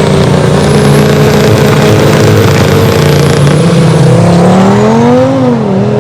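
Turbocharged drag-race car engines running loud at high revs, holding a fairly steady pitch, then dipping briefly and climbing again near the end.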